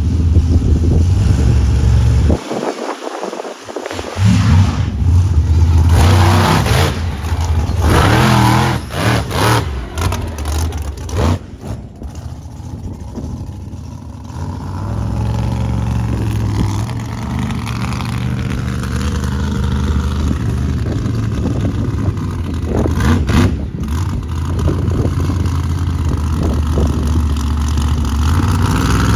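Monster truck engine revving hard in bursts of throttle, with a brief drop in the engine sound between about two and a half and four seconds in.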